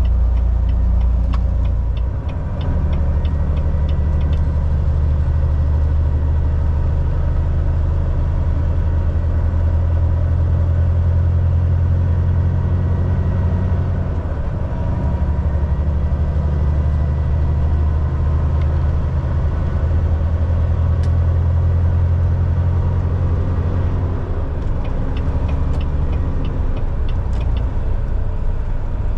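Volvo VNL 760 semi truck's diesel engine running steadily at highway speed, a deep drone with road noise. Its engine speed shifts a few times, about two seconds in, midway and near the end.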